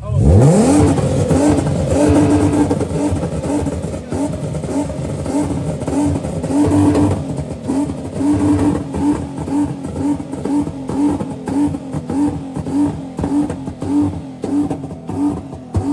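Car engine revved hard for a rev contest. It climbs quickly at the start, then is held at high revs, pulsing about twice a second as the throttle is worked against the top of the rev range.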